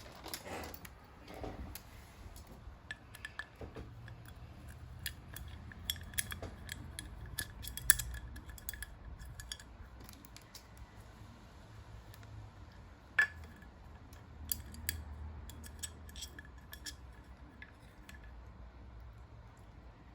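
Irregular small, sharp clicks and taps of hard objects being handled, with a brief ringing clink about thirteen seconds in.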